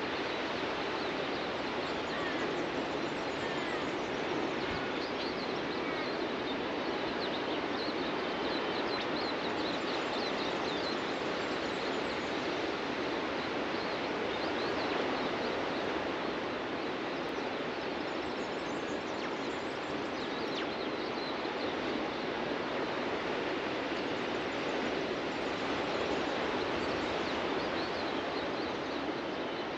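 Steady wash of ocean surf breaking on a beach, with faint, high bird chirps scattered throughout.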